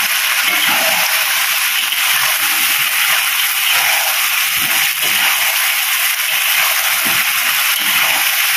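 Chicken and thick sauce sizzling steadily in a hot wok while being stirred with a slotted spatula.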